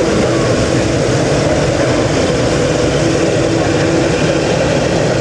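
Jet airliner engines: a loud, steady noise with a deep hum running under it.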